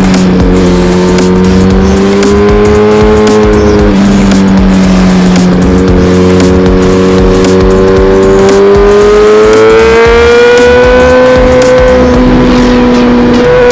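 Suzuki GSX-R1000R's inline-four engine running under way, its pitch changing with the throttle: a step about four seconds in, then a steady climb as the bike accelerates. Wind buffets the microphone throughout.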